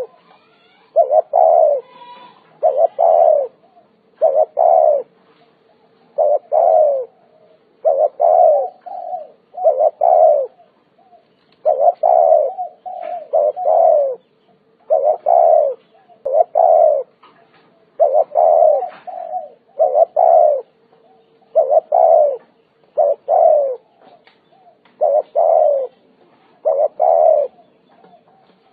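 Spotted dove cooing over and over, in short phrases of two or three coos repeated about every two seconds.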